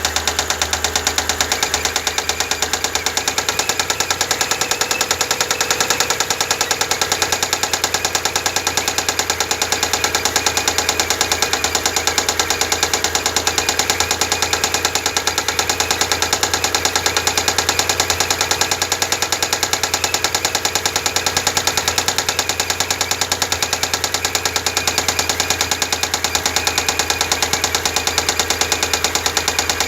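Mitsubishi 6G74 V6 engine running after a cold start, with a rapid, even knock throughout.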